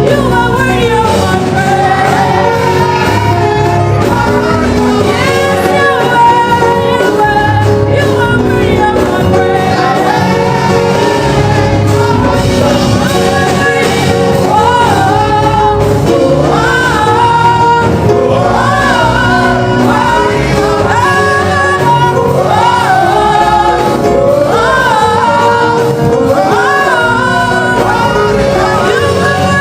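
Gospel worship song: voices singing over sustained instrumental accompaniment, with gliding, ornamented vocal lines.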